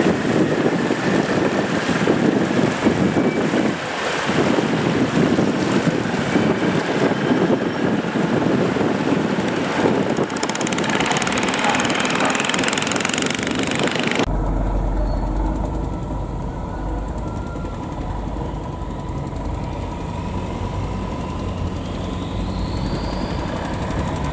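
Boat engine running under wind and water noise; about fourteen seconds in the sound cuts abruptly to a steadier engine drone with a deep rumble and a constant thin whine.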